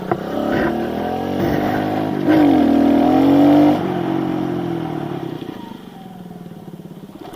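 Small pit bike engine revving: the revs climb and the sound gets louder about two seconds in, hold for over a second, then drop and fade away.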